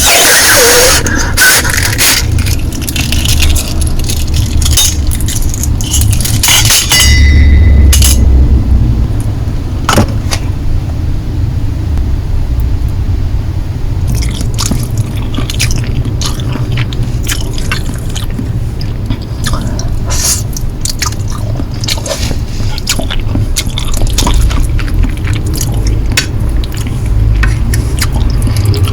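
Close-miked eating-show sounds of Korean noodles: many small clicks and scrapes of utensils against a bowl and wet noodle sounds, over a steady low rumble.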